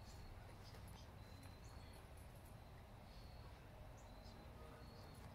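Near silence, with short, faint high chirps now and then from small birds.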